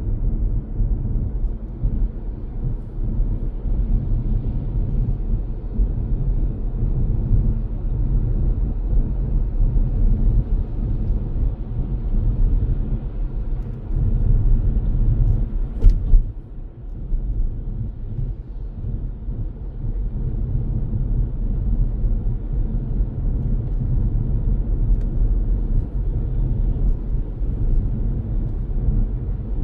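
Car driving, heard through a dashcam: a steady low rumble of engine and road noise. A single sharp click comes about halfway through, followed by a brief dip in the rumble.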